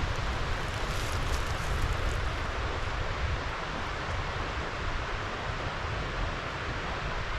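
Steady rushing wind, with gusts buffeting the microphone as a low fluttering rumble.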